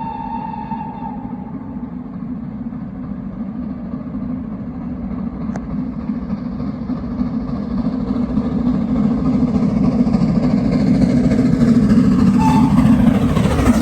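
Steam locomotive and train approaching and passing close by. Its whistle ends about a second in, then the rumble of the engine and wheels grows steadily louder to a peak near the end and starts to fall away as it goes by.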